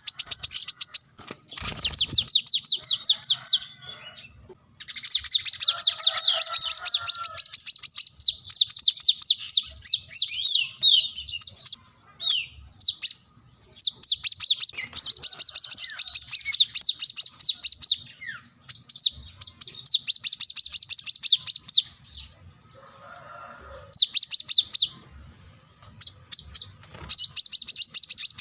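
Brown-throated sunbird (kolibri kelapa) singing in full voice: rapid, high-pitched trills of fast-repeated notes, delivered in bursts of a few seconds with short pauses between. A brief low thump comes about two seconds in.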